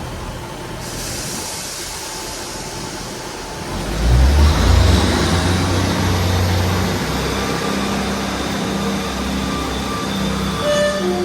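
Class 158 diesel multiple unit starting away. A hiss of air stops about a second in. About four seconds in, the underfloor diesel engines power up with a loud low rumble and a rising whine, then run on steadily as the train pulls out.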